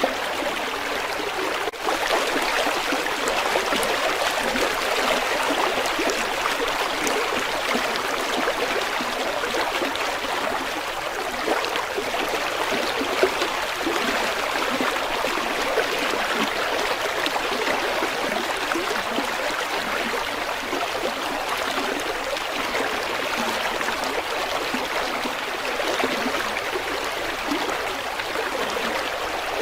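River water flowing steadily, an even rushing and babbling, with a momentary dropout about two seconds in.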